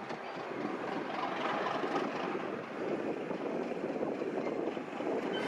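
A train running past, a steady rumble and rail noise with no pauses or changes.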